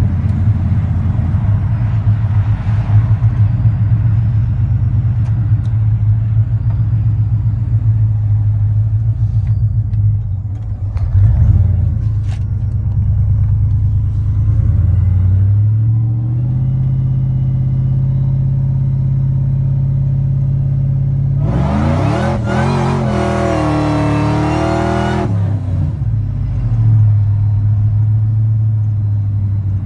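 The supercharged 5.4-litre V8 of a 1999 Ford F-150 SVT Lightning running steadily. Its note steps up to a higher steady pitch about halfway through. A few seconds later comes a louder stretch of about three seconds with a wavering, rising and falling pitch, and then the engine settles back to a lower note.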